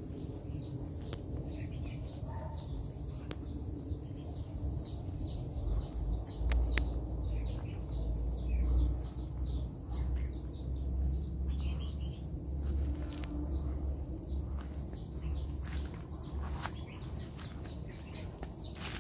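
Small birds chirping in quick, short repeated notes, with a low rumble on the microphone for several seconds midway.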